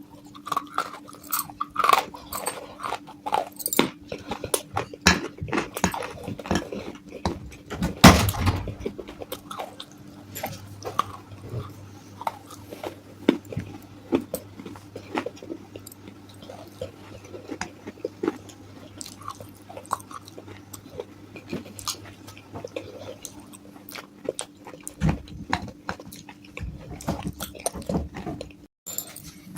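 Close-up crunching and chewing of broken baked clay pot pieces: dense, irregular sharp crunches, with one especially loud bite about eight seconds in. A faint steady low hum sits underneath.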